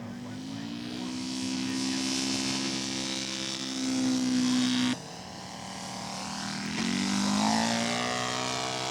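Radio-controlled scale model airplane's propeller engine running at high power, its pitch rising in the first second and again about seven seconds in. The sound drops off suddenly about five seconds in, then builds again.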